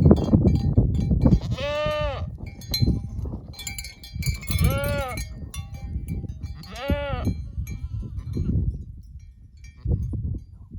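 Livestock bleating three times, a few seconds apart, each bleat a long call that rises and falls in pitch. A low wind rumble runs underneath, loudest at the start.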